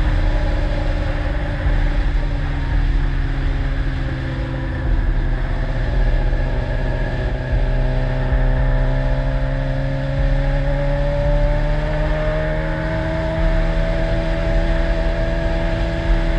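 Yamaha R6 sport bike's engine running at a fairly steady speed, its pitch dipping slightly and then rising again over several seconds before holding steady.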